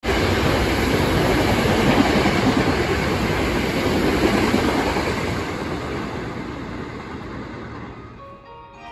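Hankyu electric train running along the platform. Its noise is loud and steady at first, then fades over the last few seconds.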